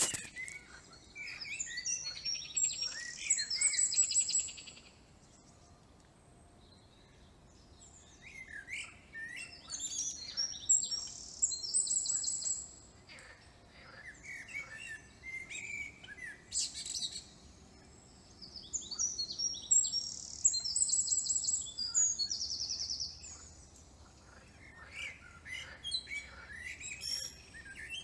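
Songbirds singing in phrases of a few seconds, each made of quick chirps and fast high trills, with short pauses between phrases.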